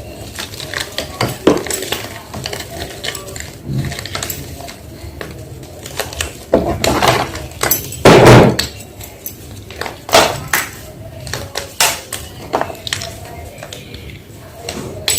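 Blocks of coloured gym chalk being crushed and crumbled, giving a run of sharp crunches and crackles at an uneven pace. The longest and loudest crunch comes about eight seconds in.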